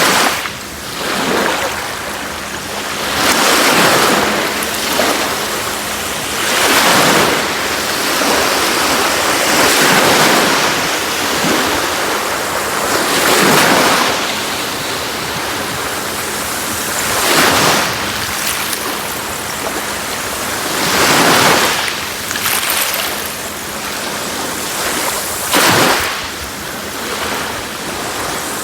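Sea waves breaking and washing up a beach, a steady loud rush that swells with each wave every three to four seconds.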